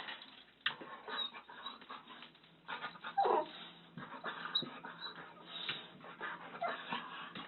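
A dog making short high calls, with one longer call about three seconds in that falls in pitch.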